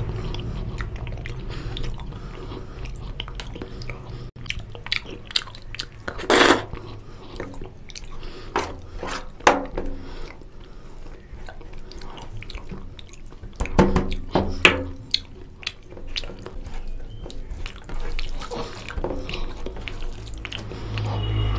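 Close-up mouth sounds of eating mutton curry and goat trotters with rice: wet chewing and biting with many irregular clicks and smacks. There are louder sudden sounds about six seconds in and again around fourteen seconds.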